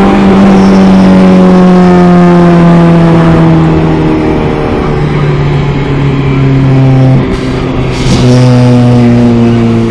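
Car engine pulling hard under acceleration, its pitch stepping down at gear changes about five and seven seconds in, with a short hiss about eight seconds in.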